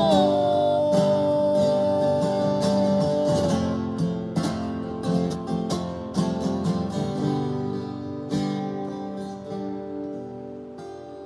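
Acoustic guitar strumming the closing chords of a song, fading out. A long held note over the chords bends down and stops about three and a half seconds in.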